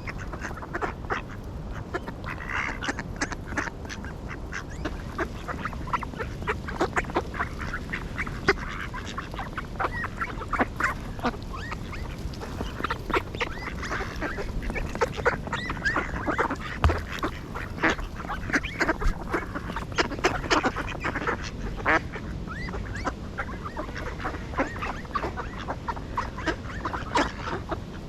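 A flock of ducks quacking and calling continuously, many short overlapping calls.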